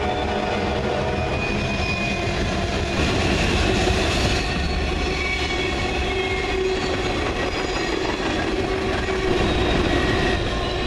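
Freight train cars rolling past on steel rails: a steady rumble of wheels with several thin, steady squealing tones from the wheels.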